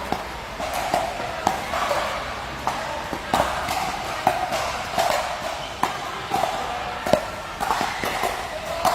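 Sharp, irregular hits of a ball being struck back and forth in a doubles rally, roughly one every second, over a steady murmur of people and hall echo.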